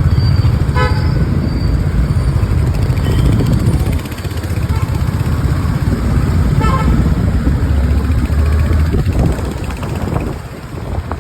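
Riding through city traffic: a steady low rumble of engine and wind, with a vehicle horn tooting briefly about a second in and again some six seconds later.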